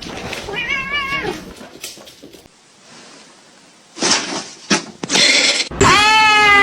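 A cat meowing: a short wavering meow about half a second in, then, after some bursts of noise, a loud, long meow near the end.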